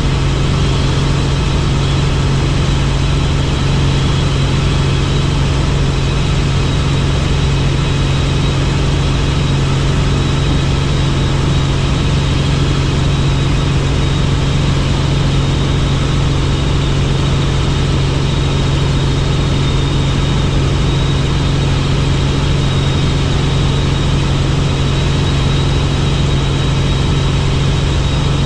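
Helicopter in flight: steady, unchanging engine and rotor noise with a strong low hum.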